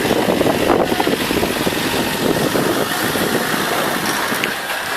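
A small boat's engine running steadily.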